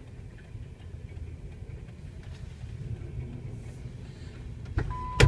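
Freight train cars rolling past a crossing, a steady low rumble heard from inside a parked car. Near the end come two sharp clicks, the second one loud, and a short steady beep.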